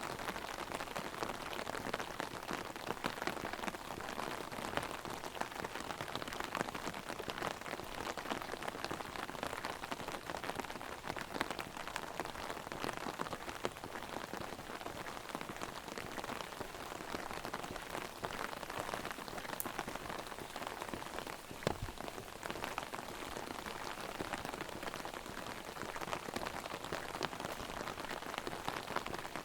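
Heavy rain pattering on an umbrella overhead: a dense, steady rattle of drops. One louder thump comes about two-thirds of the way through.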